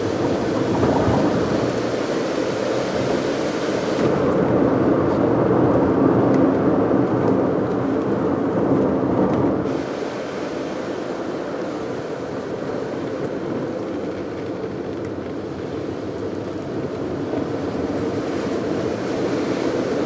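Car driving on a wet road, heard from inside the cabin: steady engine and tyre noise with a hiss from the wet tarmac. The hiss drops about four seconds in, and the whole sound gets a little quieter near ten seconds.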